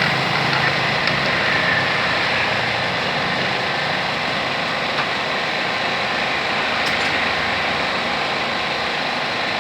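Steady engine and vehicle noise with no single clear event.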